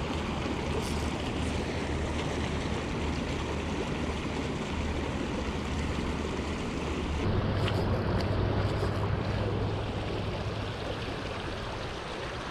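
Small mountain creek running steadily over rocks, a continuous rush of water.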